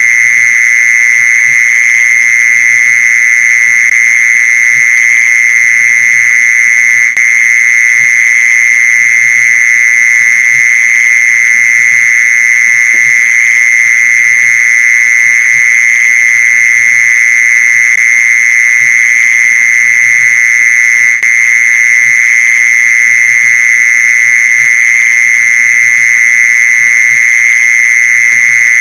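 Mole cricket's song: one loud, unbroken, high-pitched trill that holds a steady pitch, with two momentary dips about 7 and 21 seconds in.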